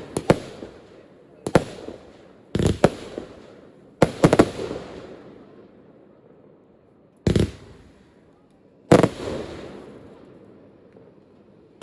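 Display fireworks bursting: about seven loud bangs at uneven intervals, some coming as quick doubles, each trailing off in a rolling echo over a second or two.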